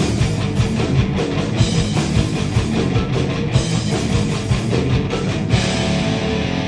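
Live heavy rock band playing: distorted electric guitars, bass and drum kit with a steady beat. About five and a half seconds in the drum hits stop, leaving held guitar chords ringing.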